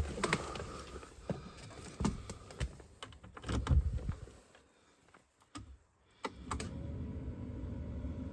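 A run of sharp clicks and knocks, a near-silent pause, then a couple more clicks. From about six and a half seconds in, the 1999 Land Rover Defender TD5's five-cylinder diesel engine runs with a steady low hum.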